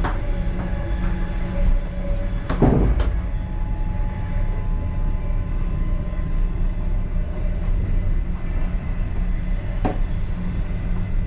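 Passenger railway car running on the track, heard from inside the last car: a steady low rumble with a faint steady whine. There is a loud knock about two and a half seconds in and a sharper click near the end.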